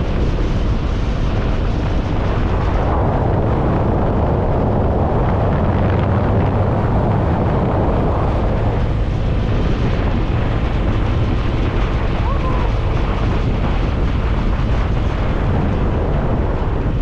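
Motorcycle on the move: a steady engine drone under a heavy rush of wind on the microphone, swelling for a few seconds a little way in.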